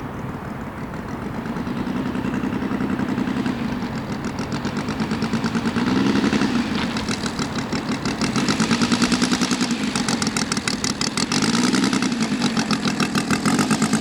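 Saito FG-84 three-cylinder radial gas engine of an RC model Corsair running with a rapid, pulsing beat. It gets louder a couple of seconds in, and its pitch swells up and falls back three or four times.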